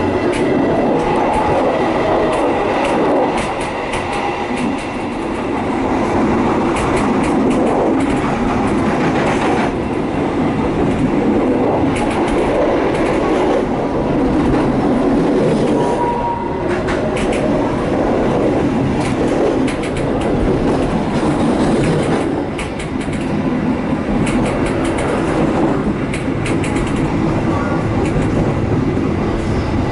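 KA Dhoho passenger train running along the track: a steady rumble with scattered clicks and knocks from the wheels on the rails.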